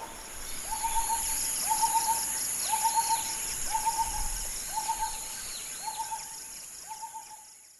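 A bird repeating a short mid-pitched call about once a second, seven times, fading toward the end, over a steady high insect-like drone with scattered higher chirps from other birds.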